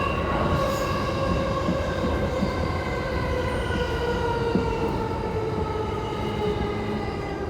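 Electric commuter train's motor whine, a stack of tones sliding slowly down in pitch as the train slows, over steady wheel and rail rumble.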